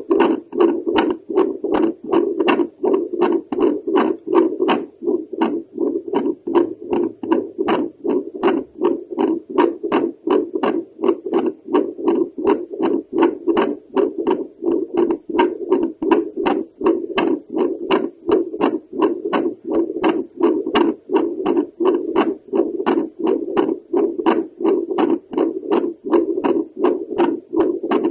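Heartbeat through a home Doppler held over the pulmonary valve: rhythmic whooshing pulses with sharp valve clicks, about two and a half pulses a second.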